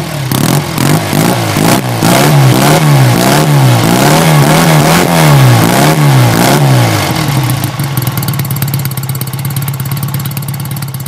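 Engine of a 1966 Triumph 350 T3 21, a parallel twin, revved in a quick run of blips about twice a second, then settling to a steady idle about seven and a half seconds in.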